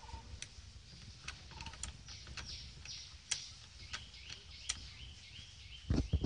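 Birds chirping in short, repeated high calls, with scattered light clicks and a loud low thump near the end.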